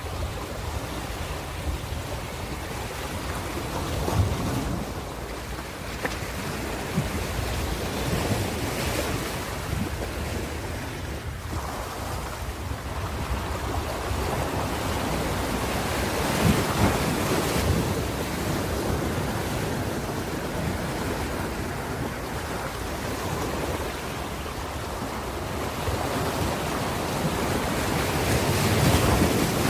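Ocean waves breaking and washing on a shore, a continuous rushing surf that swells and ebbs every several seconds, with some wind on the microphone.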